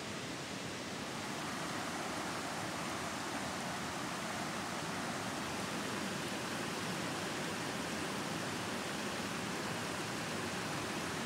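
Steady rushing of a river's flowing water, a little louder after the first second or two.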